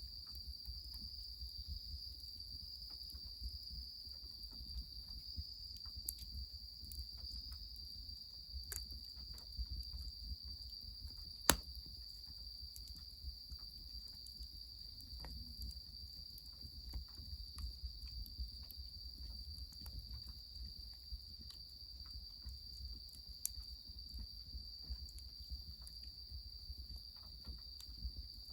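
Firewood crackling under a goemon-buro bath cauldron, with scattered small ticks and one sharp loud snap about eleven seconds in, under a steady high-pitched insect trill.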